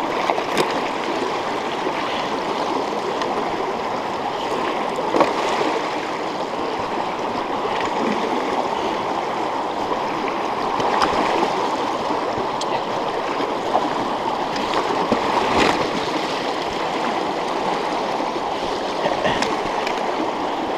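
Fast-running river water rushing steadily over its bed, with a few brief sharp clicks scattered through it.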